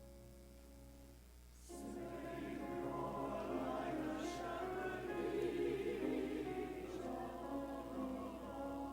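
A choir sings, coming in less than two seconds in over held keyboard chords.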